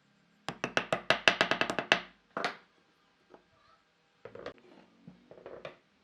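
A rapid run of sharp knocks, about eight a second, starting half a second in and lasting about a second and a half. One more knock follows, then a softer, uneven cluster of knocks near the end.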